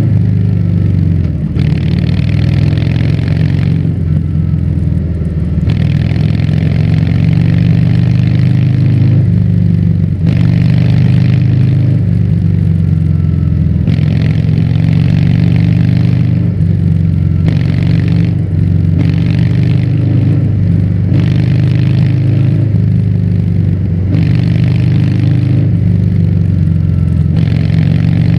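Harley-Davidson Fat Bob's Milwaukee-Eight V-twin running through a Vance & Hines aftermarket exhaust while riding, a steady deep exhaust note whose pitch shifts only slightly. A higher hiss rises and falls every couple of seconds over it.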